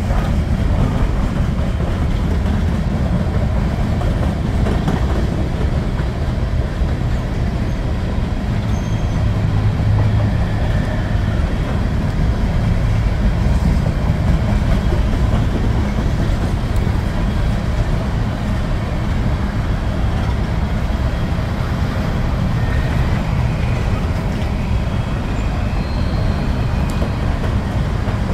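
A train of empty coal cars rolling past on the rails, a steady low rumble of wheels and car bodies with no pauses.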